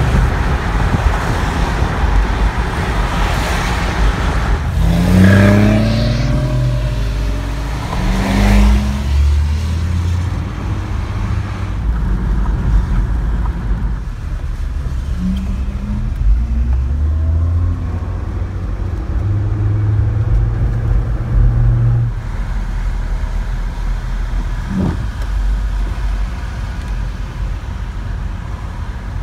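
Sports car engine accelerating hard twice, the revs rising quickly and cutting off at each shift, heard from inside another car. Under it is a steady rumble of tyres and road noise on a wet road. Later the traffic and road noise settle to a steady drone.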